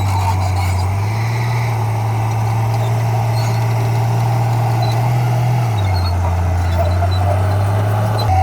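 Heavy diesel engine of earthmoving equipment running. Its note steps up about a second in, rises briefly again around five seconds and drops back just before six.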